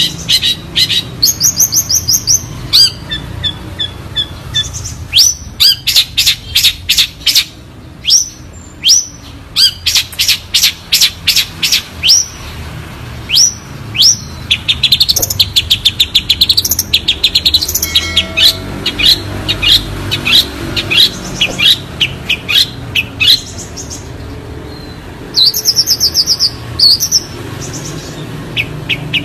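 Long-tailed shrike (cendet) singing: rapid runs of sharp, falling whistled notes mixed with fast high trills, broken by short pauses.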